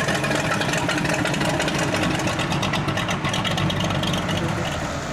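A vehicle engine running loudly and steadily, with a rapid pulsing beat.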